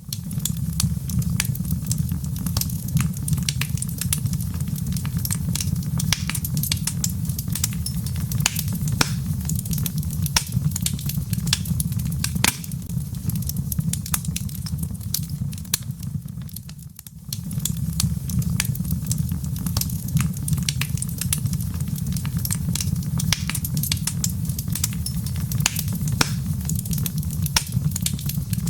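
Wood fire in a fireplace crackling, with frequent sharp pops and snaps over a steady low rumble of burning logs. The rumble briefly drops away about halfway through, then returns.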